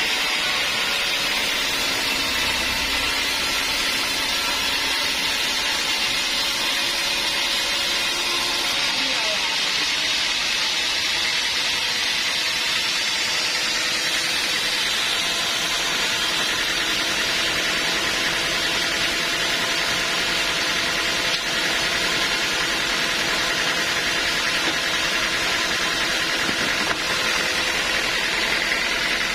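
Sawmill saw running with a steady, unbroken noise throughout.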